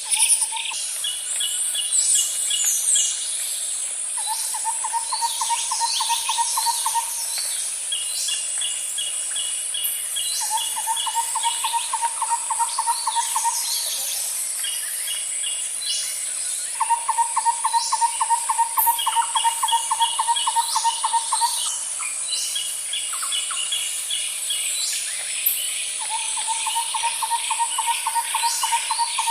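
Nature ambience: a low, even trill repeats about every six seconds, each lasting two to four seconds, over a steady high insect drone. Shorter, higher runs of chirps and scattered bird chirps sit between the trills.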